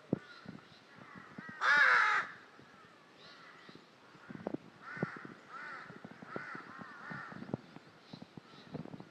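Crow cawing: one loud, drawn-out caw about two seconds in, then a run of fainter caws further off, with faint low knocks scattered throughout.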